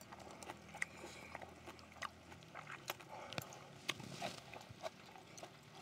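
A person chewing a mouthful of fried rice, close to the microphone: faint, irregular wet mouth clicks and smacks.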